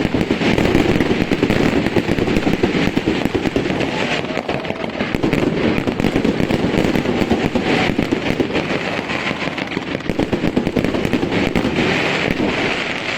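Professional fireworks display firing a dense, continuous barrage of rapid, overlapping bangs, dying away at the very end.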